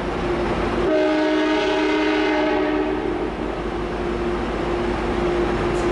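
Train horn sounding a long, steady chord over the running noise of a passing train. A second set of higher horn tones joins about a second in and stops about two seconds later.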